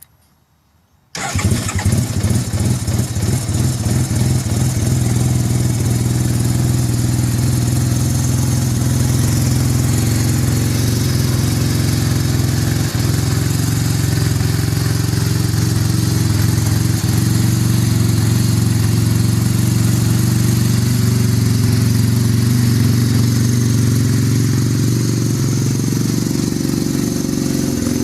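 Suzuki RE5's single-rotor Wankel rotary engine catches about a second in, then runs at a steady idle.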